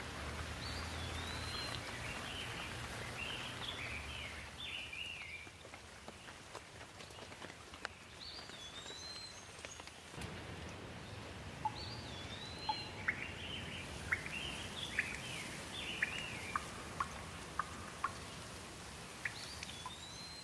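Steady rain with a songbird singing the same whistled phrase four times over it. A low rumble of distant thunder fades over the first few seconds, and from about halfway, single water drips land close by, about two a second.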